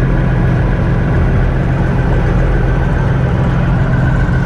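An old combine harvester running steadily: a constant low engine drone with a faint high whine from the running machinery that gets a little stronger near the end.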